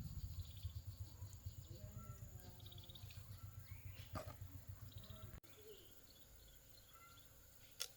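Birds chirping faintly over a low pulsing rumble, which cuts off abruptly about five seconds in; a sharp click near the end.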